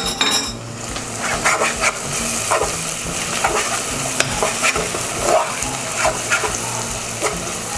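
Chopped onion with turmeric sizzling as it sautés in a pan. It is being stirred, with short scrapes and taps of the utensil against the pan every second or so.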